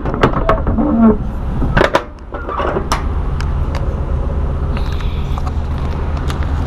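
Semi truck's diesel engine idling with a steady low rumble, with a few sharp clicks and knocks in the first three seconds and lighter clicks later on.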